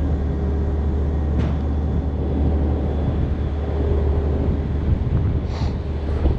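A crane's engine runs steadily with a low drone, while wind blows across the microphone.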